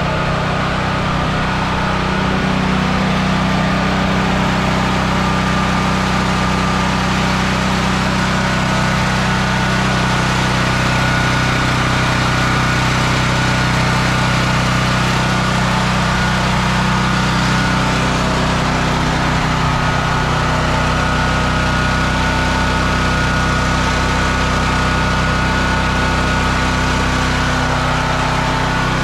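Firman T07573 tri-fuel generator engine running steadily at a constant speed, not dropping to a low idle. The owner feels the engine speed is higher than it should be.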